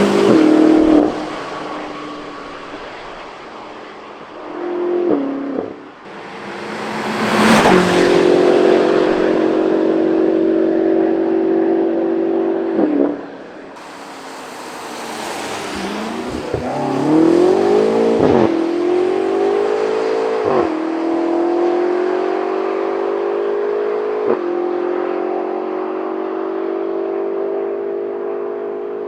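BMW X6M's twin-turbo V8 through a valved sport exhaust with the valves open, accelerating hard past in flybys. Its pitch climbs through each gear and drops briefly at each upshift, with loud peaks as the car passes.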